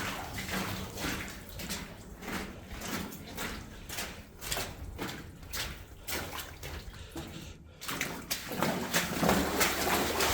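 Footsteps wading through standing water in a flooded mine tunnel, splashing and sloshing about twice a second. The splashing gets louder and busier near the end.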